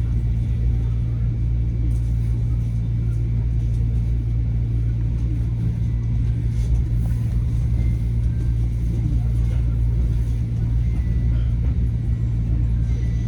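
Steady low hum and rumble of Metro-North M7A electric trains standing in the station, with a faint thin whine above it.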